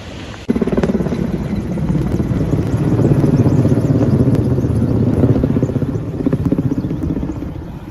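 Helicopter passing close, its rotor chopping loudly. The sound cuts in abruptly about half a second in and eases off near the end.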